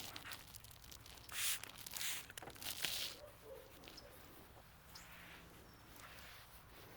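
Trigger spray bottle of ceramic detail spray spritzing three times, short hissing bursts about half a second to a second apart.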